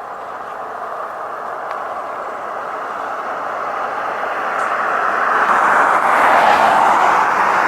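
A vehicle passing by: a steady rush of road noise that grows louder, is loudest about six to seven seconds in, then starts to fade.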